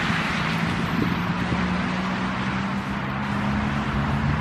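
A steady low engine hum under a broad, even hiss of wind and outdoor noise.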